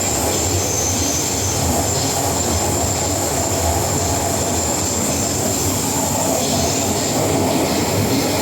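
MTR M-Train electric metro train running at speed between stations, heard from on board: a steady rumble of wheels on rail with a thin, steady high whine over it.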